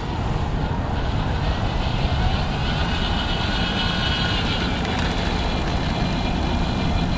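Electric brushless motor and propeller of an E-Flite AT-6 Texan RC plane taxiing, a steady whine of several tones that waver a little with the throttle, over a low rumble. An onlooker thinks something sounds loose.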